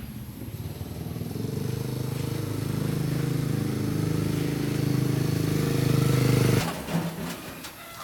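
A motor running steadily with a low, even hum. It grows louder over several seconds, then cuts off suddenly near the end.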